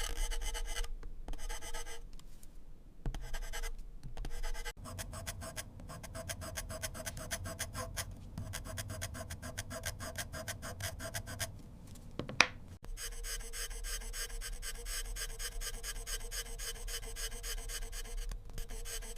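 Pencil scratching on paper in rapid, continuous drawing strokes, with brief pauses in the first few seconds and one sharp click about twelve seconds in.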